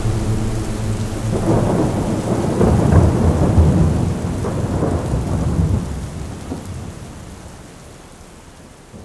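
Thunder rumbling over steady rain during a heavy thunderstorm: the rumble swells about a second and a half in, is loudest around three to four seconds, then dies away slowly.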